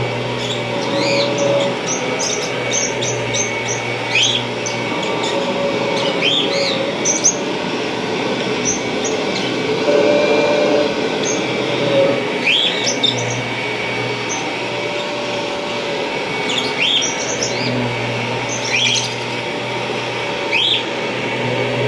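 1991 Kirby Generation 3 upright vacuum cleaner running steadily, a rush of air over a low hum. Clusters of short, high, rising chirps come and go over it every few seconds.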